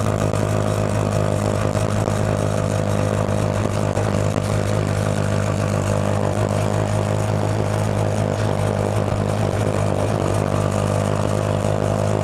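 Go-kart engine idling steadily, with no revving.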